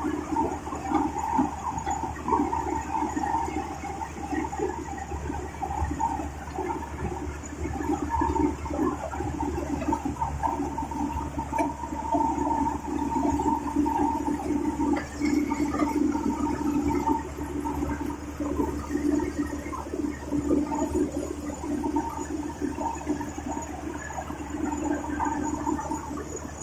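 Combine harvester running steadily, a continuous low engine rumble under a rough, rushing mechanical noise.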